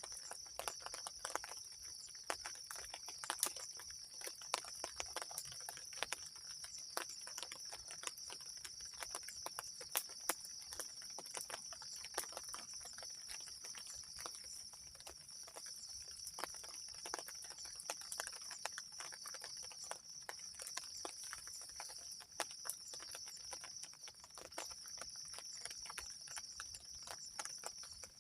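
Irregular tapping of raindrops and drips on the camp shelter, many taps a second, over a steady high-pitched insect drone.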